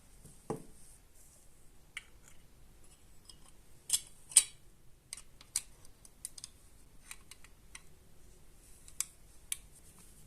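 Scattered light clicks and taps of hand tools and small parts being handled. Two sharper, louder clicks come about four seconds in, and a short duller knock comes just after the start.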